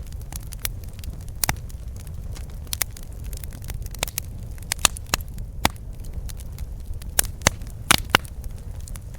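Campfire crackling and popping: irregular sharp snaps, a cluster of louder pops near the end, over a steady low rumble of the burning fire.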